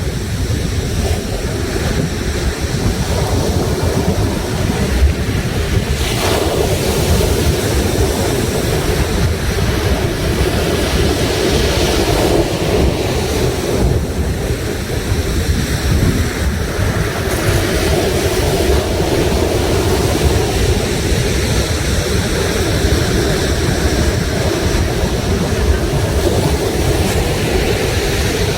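Sea surf washing onto the shore, a continuous rush that swells and eases every few seconds, with wind buffeting the microphone.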